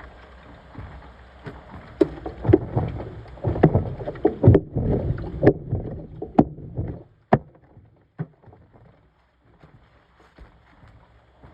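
Washing machine washing: water and laundry sloshing in the turning drum, with sharp knocks and splashes. The sloshing dies down about seven seconds in, as the drum pauses.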